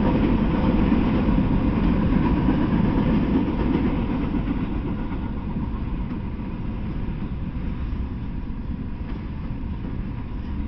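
Freight train of open-top hopper cars rolling past, a steady rumble of wheels on rail that eases off from about four seconds in.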